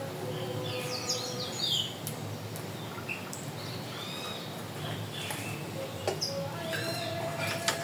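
Several wild birds chirping and calling, with short rising and falling notes that overlap at irregular moments.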